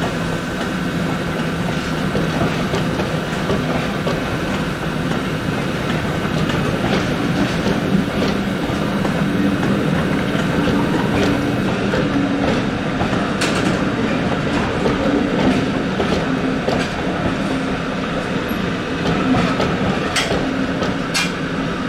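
Steam-hauled passenger train rolling along the track, the wheels clicking over the rail joints now and then, more often in the second half.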